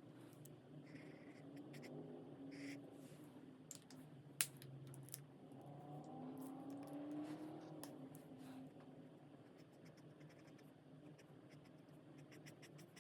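Faint scratching of alcohol marker tips on coloring-book paper, with one sharp click about four seconds in.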